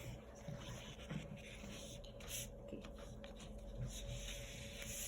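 Paintbrush strokes spreading tempera paint across paper: soft, irregular brushing and rubbing, a little louder about two seconds in and again near the end.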